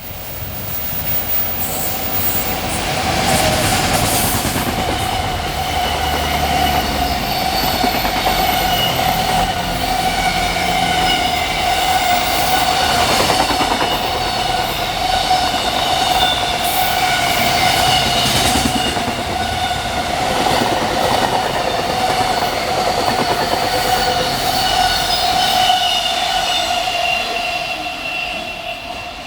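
Freight train running past, with a steady high ringing tone from the wheels over a rumbling clatter, building up over the first few seconds and fading toward the end.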